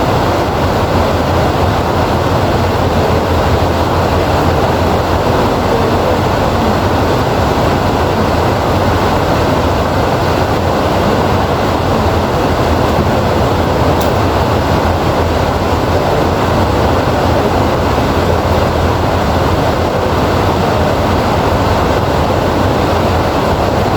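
Heavy rain falling steadily, an even rushing noise with a low rumble and no breaks.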